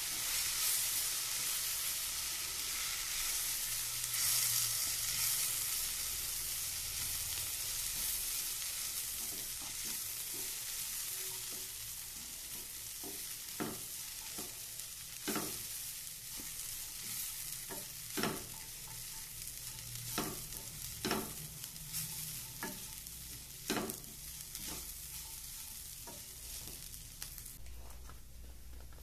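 Oats and chopped vegetables frying in oil in a pan, a steady sizzle that slowly fades while a wooden spatula stirs them. From about halfway through, the spatula knocks sharply against the pan a dozen or so times.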